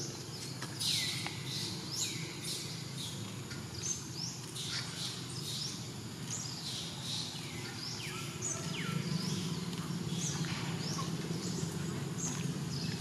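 Birds chirping over and over, many short calls sliding down in pitch, against a steady low hum that grows louder about two-thirds of the way through.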